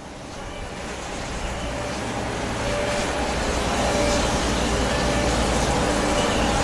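Jet airliner engines, a low rumble with a faint whine, growing louder over the first three seconds and then holding steady.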